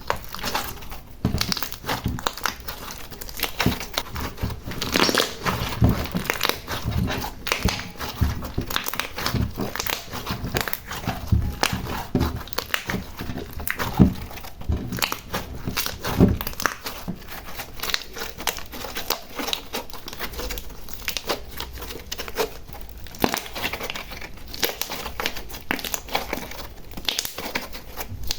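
Slime being kneaded and stretched by hand: a dense, irregular run of crackles and small pops, busiest in the first half and lighter after about seventeen seconds.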